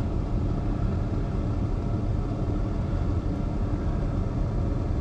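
Steady low rumble of a car running on the road, heard from inside the cabin.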